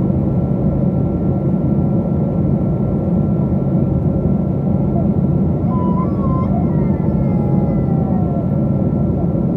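Steady in-flight cabin noise of a Boeing 777-200, heard inside the economy cabin: a dense low rumble of the engines and airflow with a thin steady whine above it.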